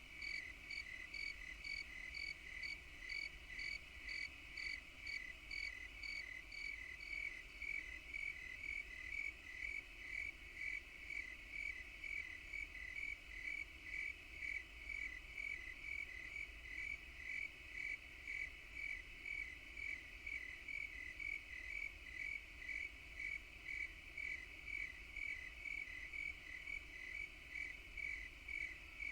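Insect chirping in a steady, even rhythm, about two chirps a second.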